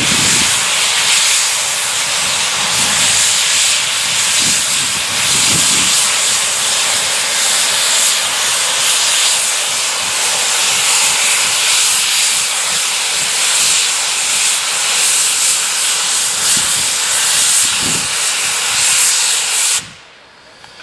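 Steam locomotive venting steam: a loud, steady hiss that cuts off abruptly near the end.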